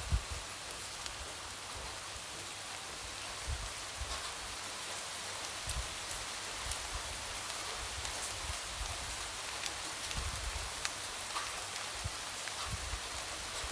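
Light rain falling steadily as an even hiss, with scattered taps of individual drops and soft low thuds here and there.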